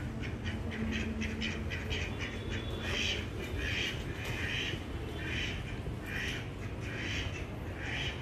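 A bird calling in a run of short repeated calls, quick at first, then slower at about one call a second, over a steady low rumble.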